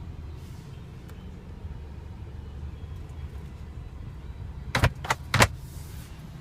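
Car glove box lid being shut: three sharp clicks and knocks in quick succession about five seconds in, over a steady low hum in the car's cabin.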